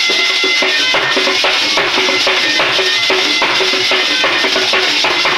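Instrumental interlude of a devotional bhajan: steady hand-drum strokes on dholak with a sustained melody line and shaken percussion.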